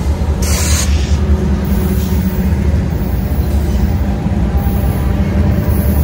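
Double-stack intermodal container train passing close by: a steady, loud, low rumble of wheels running on the rails, with a brief hiss about half a second in.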